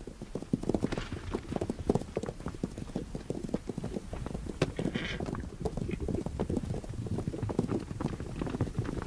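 Hoofbeats of wild horses running over ground: a quick, uneven run of dull hoof strikes, with a brief higher-pitched sound about five seconds in.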